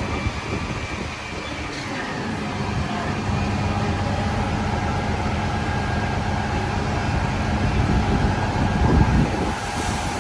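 City street traffic noise with a vehicle engine humming steadily from about three seconds in, over a low rumble of wind on the microphone.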